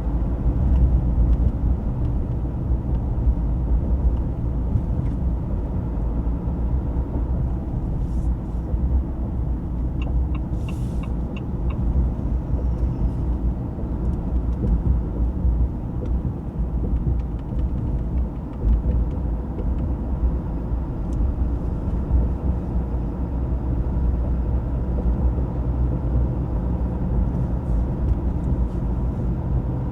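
The 2025 Ram 2500 Rebel's high-output Cummins 6.7-litre turbo-diesel inline-six running steadily while the truck is driven, a low rumble. About ten seconds in there is a brief run of light quick ticks.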